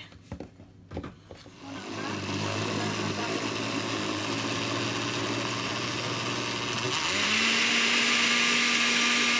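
Electric kitchen blender grinding fresh coriander, green chillies, garlic and ginger into a paste. After a couple of knocks the motor starts and runs steadily, and about seven seconds in its hum jumps to a higher, louder pitch.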